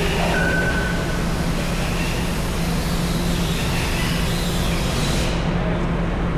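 Heavy machinery running steadily: a constant engine drone with a low hum and a few brief high-pitched squeals.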